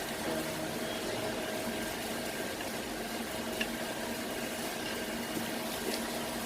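Steady background hiss with a faint hum and a couple of light clicks.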